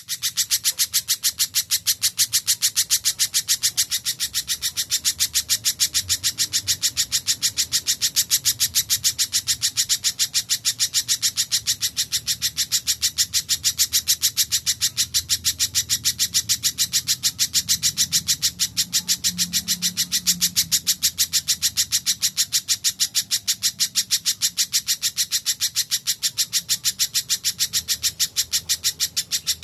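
Spiderhunter (pijantung) calling nonstop: a fast, even run of sharp high-pitched chips, about six or seven a second, without a pause.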